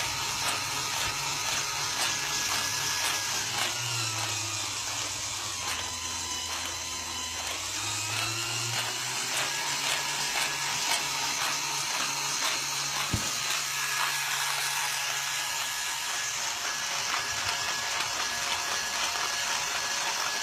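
Car engine running steadily, its speed dipping and picking back up once about four to eight seconds in, with a single sharp click about thirteen seconds in.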